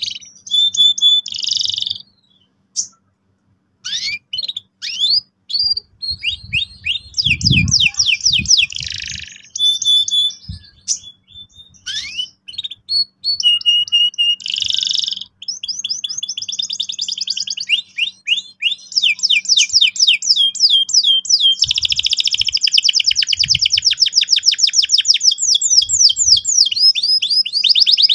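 Domestic canary singing loudly: varied phrases of rapid repeated notes and rolling trills, with a short pause about two seconds in and a long, very fast, even roll over the last third.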